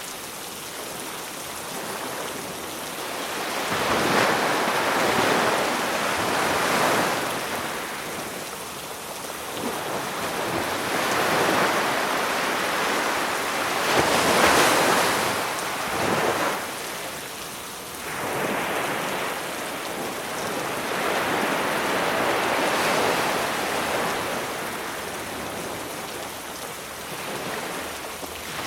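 Sea waves breaking on the shore, swelling and falling back every few seconds, with rain hissing steadily over them.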